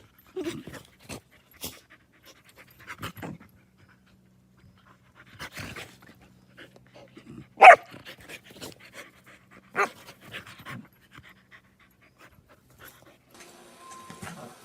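A dog panting in short, irregular breaths, with a sharp loud sound about seven and a half seconds in and a smaller one about two seconds later.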